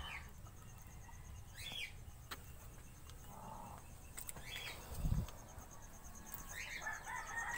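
A few faint, short bird chirps, each gliding downward, spaced a couple of seconds apart, with one low thump about five seconds in.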